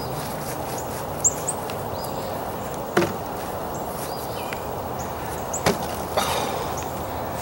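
A garden digging tool chopping into hard, compacted soil while digging sweet potatoes. There are a few sharp strikes, a second or more apart, over a steady rustle of soil and vines.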